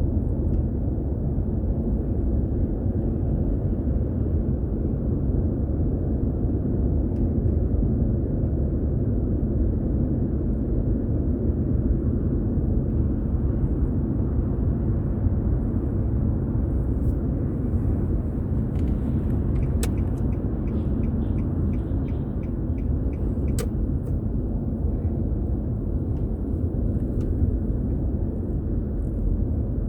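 Steady road and engine rumble of a moving car, heard from inside the vehicle. Past the middle, a run of about a dozen evenly spaced light ticks lasts several seconds, with a couple of sharper clicks among them.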